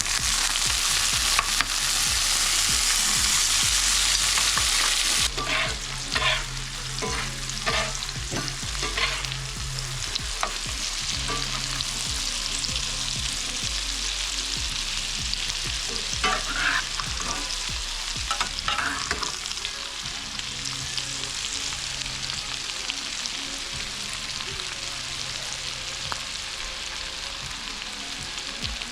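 Fish frying in a pan, a steady sizzle that is loudest for the first five seconds and then settles lower, with a few short scrapes or taps of a utensil in the pan.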